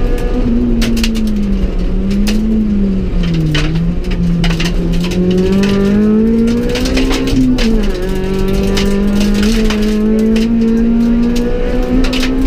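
Honda Civic EK4 rally car's four-cylinder engine heard from inside the cabin, run hard at high revs, its pitch sagging and climbing through the bends and dropping sharply about eight seconds in at a gear change. Frequent sharp clicks and knocks sound over the engine.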